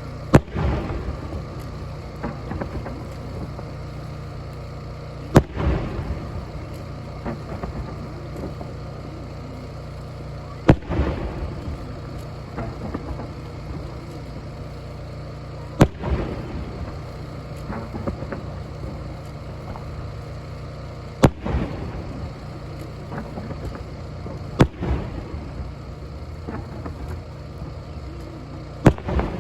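Fireworks shells bursting overhead: a sharp bang about every five seconds, seven in all, each followed by a trail of smaller pops and crackles, over a steady low rumble.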